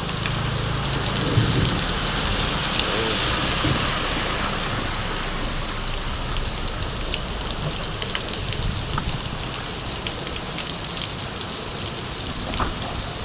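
Heavy rain pouring down steadily: a dense, even hiss with scattered sharp drop ticks.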